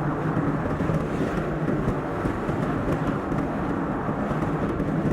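Steady car driving noise: engine and tyre rumble on the road, even throughout with no distinct events.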